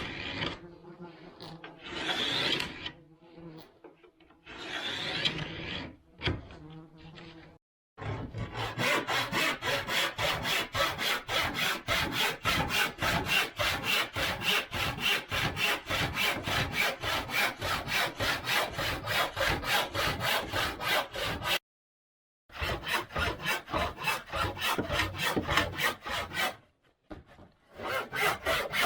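Hand saw cutting through wood in quick, even strokes, about three or four a second, stopping briefly twice. Before the sawing starts there are a few irregular scraping and handling noises.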